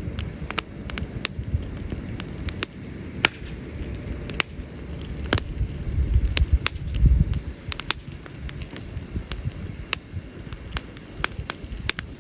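Wood campfire crackling, with irregular sharp pops and snaps over a low rumble that grows louder around the middle.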